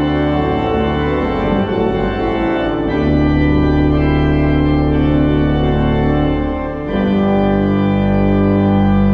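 Church organ playing loud, sustained full chords, moving to a new chord about three seconds in and again about seven seconds in: the closing postlude of the service.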